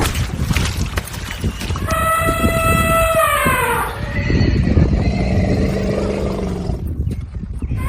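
A horse neighing: one call of about two seconds that drops in pitch as it ends, then a fainter, lower call, over a steady low rumble.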